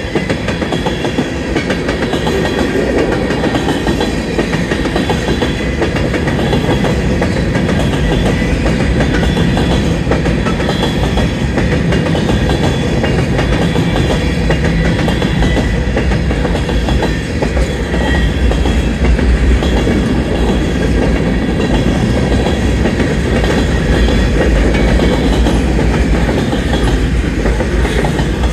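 Freight train cars rolling past at speed: a steady, loud rumble of steel wheels on rail with rapid, continuous wheel clatter.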